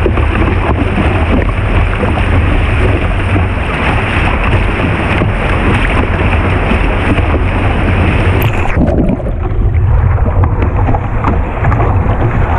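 Rushing whitewater of a river rapid, with wind buffeting the microphone. About eight and a half seconds in, the higher part of the water's hiss drops away abruptly.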